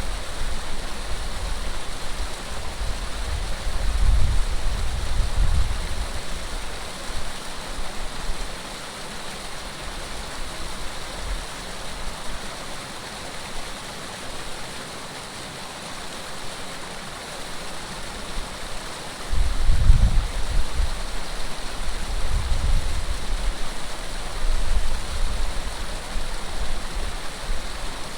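Steady rush of running water. Low gusty rumbles swell in about 3 seconds in and again from about 19 to 26 seconds in, typical of wind buffeting the microphone.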